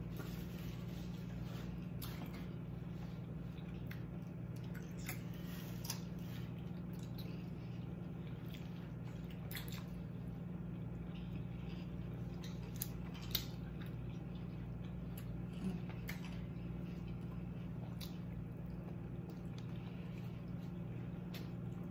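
Chewing and wet mouth sounds of someone eating smoked sausage and seafood, with scattered small clicks and squishes from handling the food, over a steady low hum.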